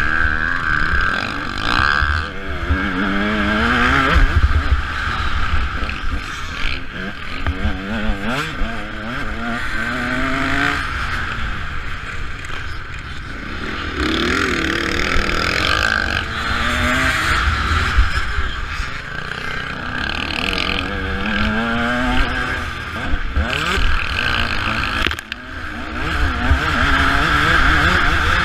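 Motocross bike engine revving up and dropping back again and again as the rider accelerates and eases off around the track, heard close over heavy wind rush and rumble. The engine sound dips briefly near the end.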